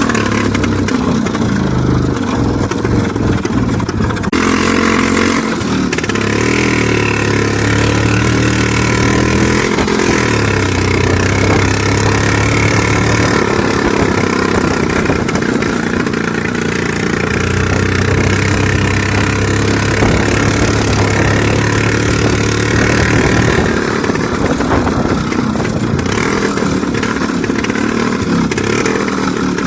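IZh Planeta 3 motorcycle's single-cylinder two-stroke engine running under way, its note rising and falling several times as the throttle changes.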